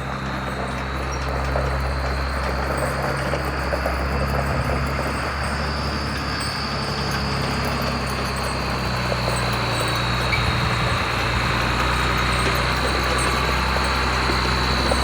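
Forklift running steadily, a low engine hum with a high whine above it that drifts slightly up and back down.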